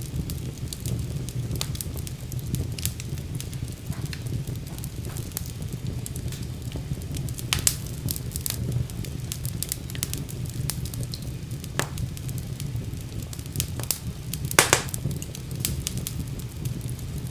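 Wood fire burning in a fireplace: a steady low rumble of flames with irregular crackles and a few louder pops, the loudest about three quarters of the way in.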